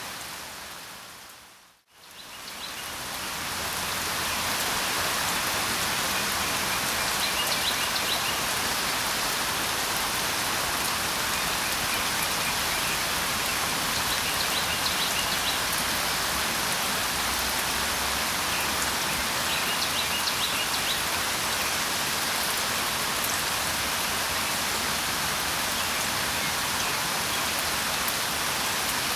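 Steady rain falling, which fades out to near silence about two seconds in and fades back up over the next two seconds. Faint bird chirps come through the rain three times.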